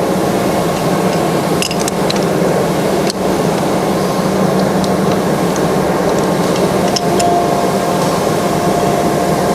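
Steady mechanical hum of running machinery, with a few light clicks and taps.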